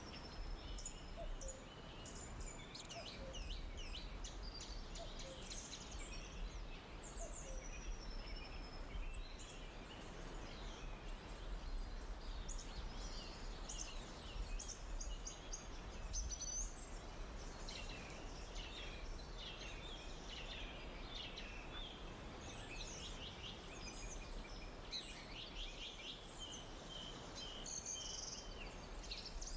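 Forest ambience of many small songbirds chirping and trilling in overlapping calls, over a faint steady low rumble.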